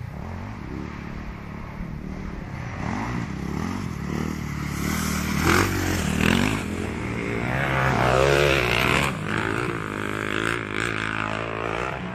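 Motocross bike engines revving up and down as the bikes ride the track, loudest about halfway through.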